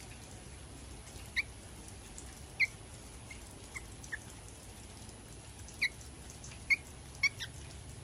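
Fledgling songbirds giving short, sharp chirps, about nine scattered irregularly, squabbling among themselves.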